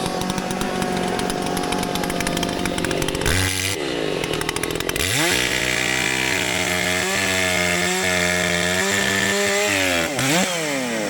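Two-stroke chainsaw cutting a large tree trunk, running at high revs. The revs drop and swing about three and a half seconds in, then climb back to a steady full-throttle pitch. They dip briefly once more near the end.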